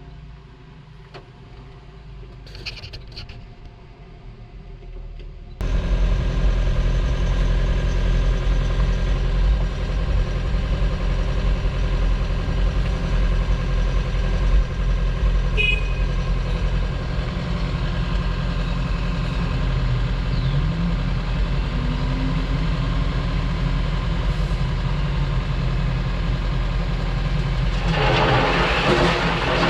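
Diesel engine of heavy earthmoving equipment running steadily under load, coming in abruptly about five and a half seconds in after a quieter stretch. A rattling hiss rises near the end.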